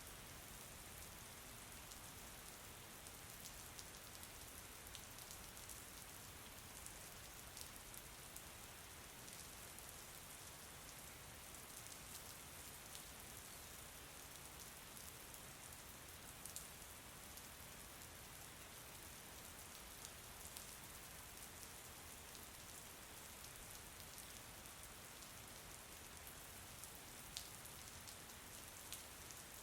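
Faint steady rain: an even hiss with scattered individual drops ticking.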